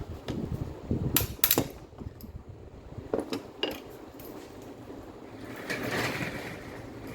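Hard clicks and knocks of small metal parts and tools being handled during an angle grinder repair, a few sharp clinks in the first four seconds, then a softer scraping rustle about six seconds in.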